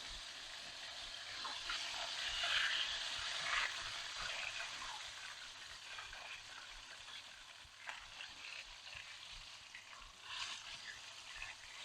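Hot cooking oil sizzling and crackling during deep frying. The hiss is strongest a couple of seconds in and then eases off a little.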